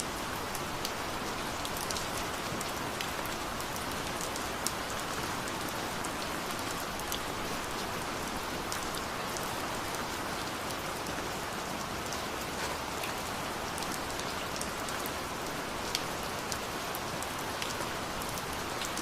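Steady rain falling, with individual drops ticking sharply over the constant hiss of the downpour.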